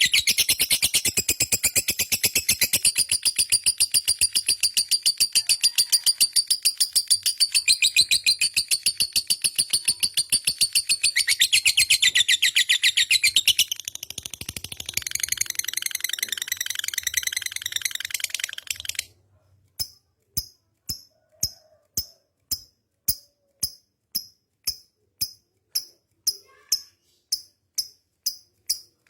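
Lovebird's long 'ngekek' chattering trill: a continuous, very rapid, high-pitched stream of notes lasting about nineteen seconds, softer over its last few seconds. It then breaks into separate short high chirps, evenly spaced at a little under two a second.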